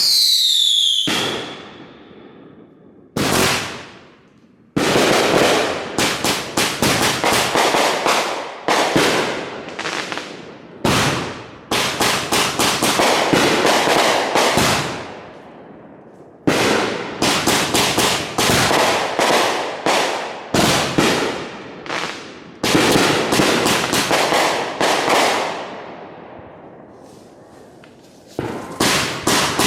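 Consumer fireworks going off in rapid runs of sharp bangs, several a second, with short pauses between volleys. It opens with a brief falling whistle.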